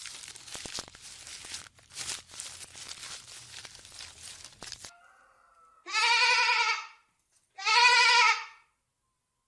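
Scattered rustling and clicks, then two loud bleats about a second and a half apart from a farm animal.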